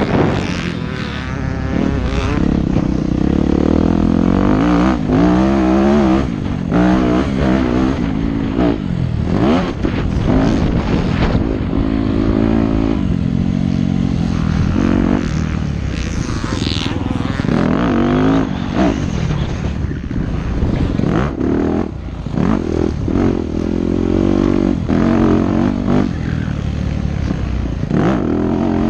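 Yamaha YZ250F four-stroke single-cylinder motocross engine revving hard and backing off over and over, its pitch climbing and dropping every second or two as the bike is ridden around the track.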